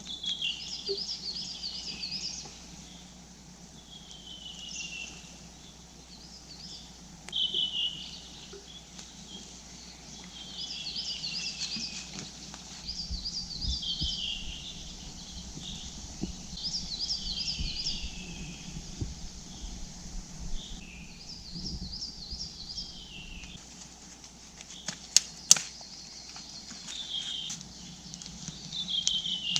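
A songbird singing the same short phrase over and over, a quick trill that slides down at its end, every three to five seconds. A low rumble runs through the middle, and a few sharp clicks come near the end.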